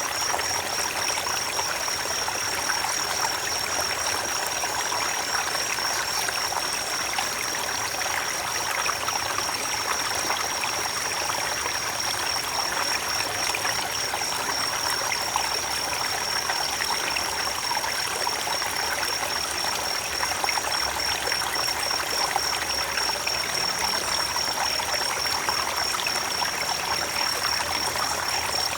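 Creek water running in a steady trickling rush. A steady, high-pitched, faintly pulsing tone sits above it.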